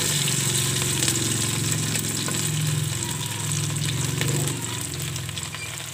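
Oil sizzling with faint crackles as shrimp-and-moringa fritters shallow-fry in a pan, over a steady low hum.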